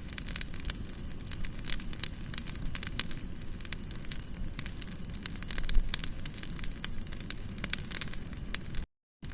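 Campfire crackling: many sharp, irregular pops over a steady low rumble of burning wood. The sound cuts out completely for a moment near the end.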